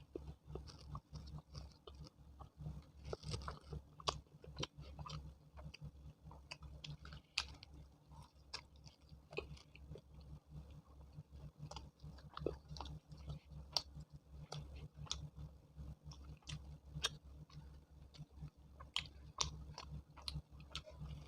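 Close-up wet chewing and lip smacks of a person eating chole bhature, with many small irregular clicks of mouth noise. A steady low hum runs underneath.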